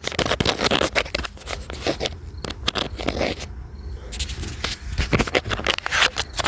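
Handling noise as the camera is set down and things are moved around it: a string of clicks, knocks, scrapes and rustling.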